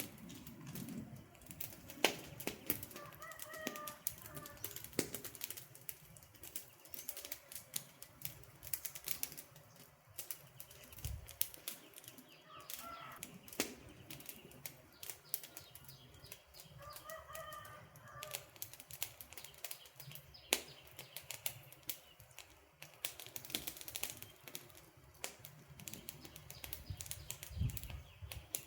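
Wood campfire crackling: a dense, irregular run of sharp snaps and pops from burning logs. A faint pitched call sounds three times behind the crackle.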